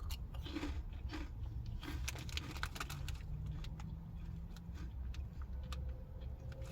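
Crisp crackling crunches of a cheese-flavoured corn puff snack being bitten and chewed, thickest in the first three seconds, over a low steady hum.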